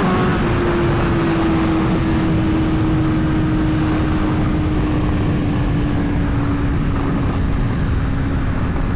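BMW S1000RR inline-four engine running at steady high revs at speed after a hard pull, its pitch slowly sinking as the rider eases the throttle, under a constant rush of wind.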